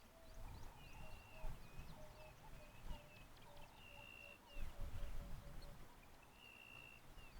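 Several wild birds calling at once. There are long, level whistled notes, short falling high notes, and a run of low, evenly spaced hooting notes a little after the middle, over a low rumble that swells about five seconds in.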